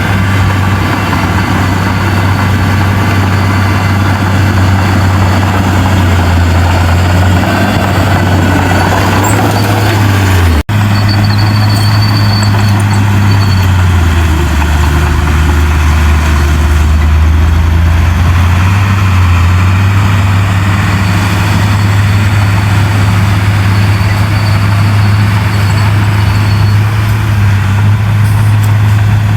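Heavy diesel engine of earthmoving machinery running steadily with a deep low drone. The sound cuts out for an instant about ten seconds in.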